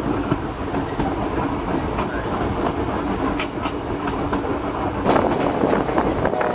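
Narrow-gauge train running along the track, heard from the open rear platform of the caboose: a steady rumble of wheels on rail with scattered sharp clicks, a little louder about five seconds in.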